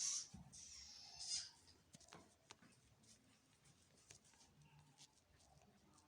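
A brief high hiss in the first second or so, then near silence with scattered faint clicks.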